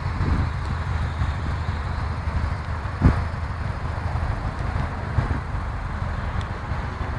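Subaru Legacy B4's 2.0-litre twin-turbo boxer engine running steadily with a low, even rumble, with a single thump about three seconds in.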